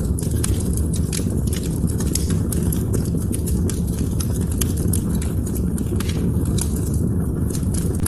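Wood fire burning in a fireplace, crackling with many sharp pops, several a second, over a steady low rumble.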